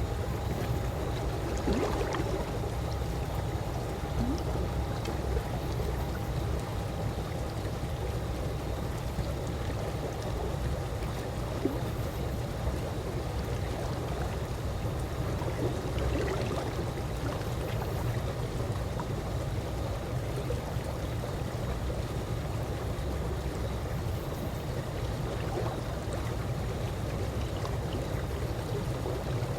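Calm swimming-pool water moving gently: a steady low wash, with small splashes and trickles here and there.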